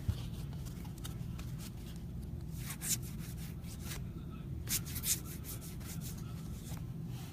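Trading cards being handled: soft rubbing and sliding of card stock, with a couple of brief swishes about three and five seconds in, over a steady low background hum.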